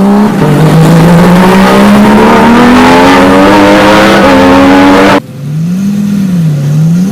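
A sports car's engine running hard and very loud, its pitch climbing slowly, cut off abruptly about five seconds in. A quieter engine follows, its pitch rising, falling and rising again.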